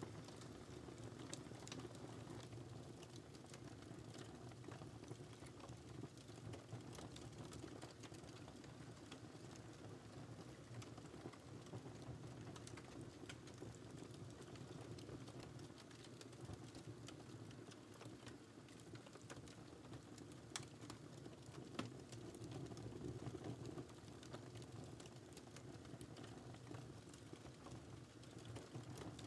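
Wood fire crackling: a soft, steady low rumble of burning with scattered sharp pops and snaps, a couple of louder pops about twenty seconds in.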